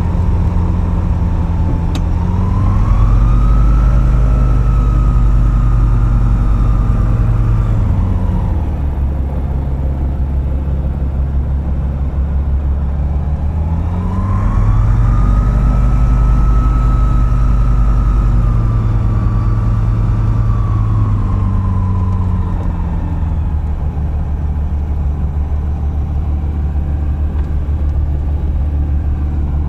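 Single-engine light aeroplane's piston engine and propeller running. The engine is opened up and held at higher speed for about five seconds, then throttled back, and this happens twice.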